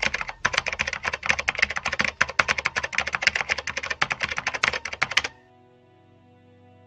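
Typing sound effect: a fast, dense run of keystroke clicks that stops suddenly about five seconds in. Faint soft music with held notes continues afterwards.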